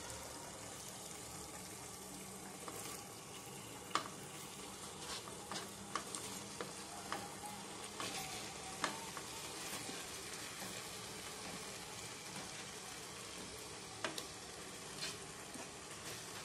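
Thick masala gravy sizzling faintly in a pot while fried vegetables and paneer are pushed in off a plate with a spoon. Scattered sharp clicks of the spoon against the plate and the pot are heard throughout.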